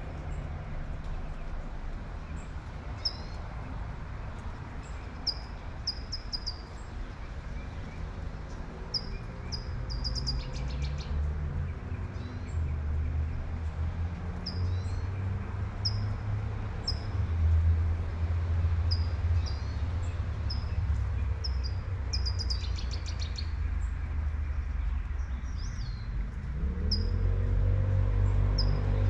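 A bird chirping a short high call over and over, about once a second, with two brief fuller trills, over the steady hiss of light rain. A low rumble of passing traffic swells in the middle, and a vehicle's engine rises in pitch near the end.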